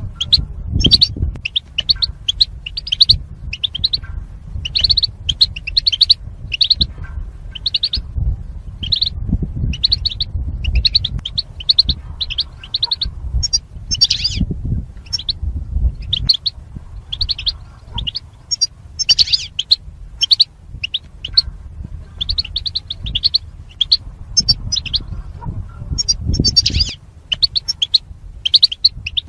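European goldfinch twittering: quick clusters of high chirping notes, one after another without a break. A low rumble runs underneath.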